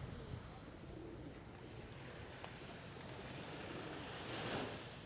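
Gentle sea surf washing onto a sandy beach, a steady hiss with one wave swelling louder about four seconds in.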